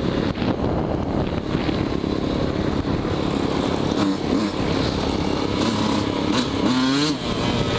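Yamaha YZ125 two-stroke dirt bike engine running under throttle while being ridden, a steady loud motorcycle sound with a few rises and falls in pitch.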